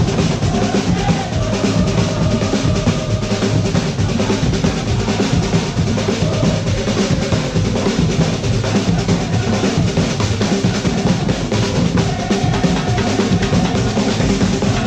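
Live percussion band playing a continuous, dense drum beat at a steady loud level, with faint held tones in the background.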